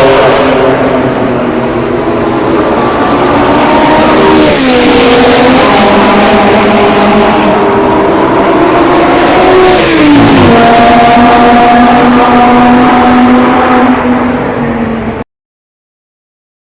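Porsche 997 MKII Carrera flat-six running loud through an iPE Innotech valved performance exhaust under acceleration. The pitch drops twice, about four and ten seconds in, as it shifts up a gear, then the sound cuts off suddenly about fifteen seconds in.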